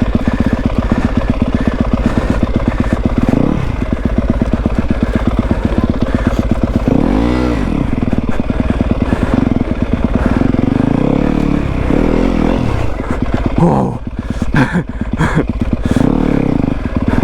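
Yamaha WR250F's 250cc single-cylinder four-stroke engine running, with the throttle blipped a few times so the pitch rises and falls, most clearly about halfway through.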